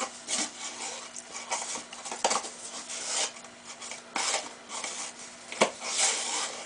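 A spoon scooping baking soda and tipping it into a cup: irregular scraping and rustling, with a sharp tap about five and a half seconds in.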